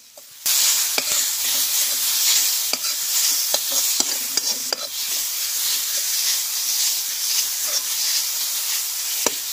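Grated radish and onion with spices sizzling in a hot kadhai while a metal spatula stirs and scrapes through them, with scattered sharp clicks of the spatula against the pan. The sizzle starts about half a second in and stays steady.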